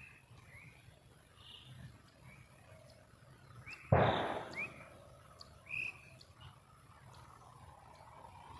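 A firecracker goes off with a single sharp bang about four seconds in, dying away over about a second. Birds chirp faintly before and after.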